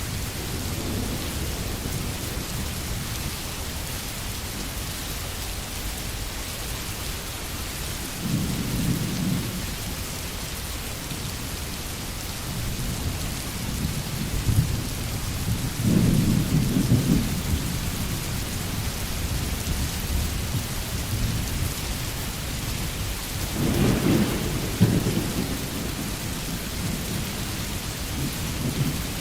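Steady rain on a tin roof, with three low rolls of thunder rumbling up and fading, about a third of the way in, around the middle, and near the end.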